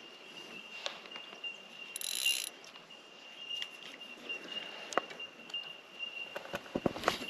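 A fishing reel whirring briefly about two seconds in, then clicking a few times, more of them near the end. Behind it, a steady high ringing note from bell miners (bellbirds).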